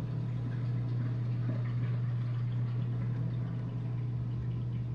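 Whirlpool dishwasher's drain pump running with a steady low hum, pumping out the main-wash water.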